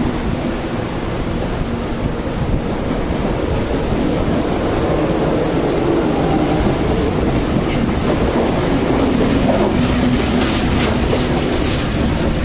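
CAF electric multiple-unit commuter train running on the rails, with a steady rumble and wheels clattering over the track. The clicks come thicker in the second half.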